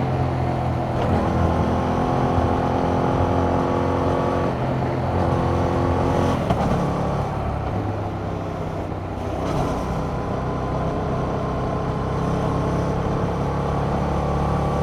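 2021 Yamaha MT-07's 689 cc parallel-twin engine through its stock exhaust, heard from on the bike under way. It holds fairly steady revs with a few throttle changes, eases off for a moment a little past halfway, then pulls again.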